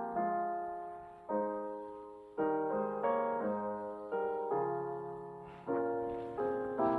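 Solo piano playing slow chords, each struck and left to fade away, about one a second.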